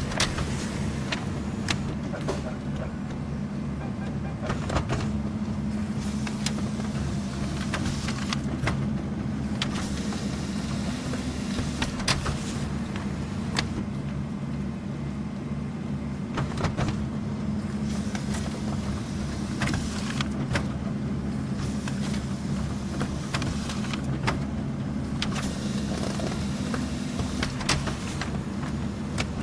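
Office printer running continuously as paper is fed and printed: a steady motor hum with irregular clicks from the paper-feed mechanism.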